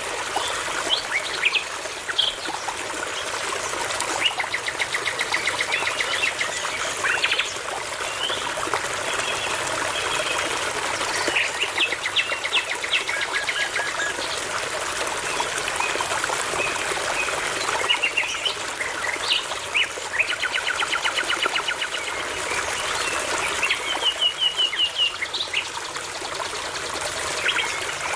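Songbirds singing in repeated rapid trills and short chirps over the steady rush of a babbling brook.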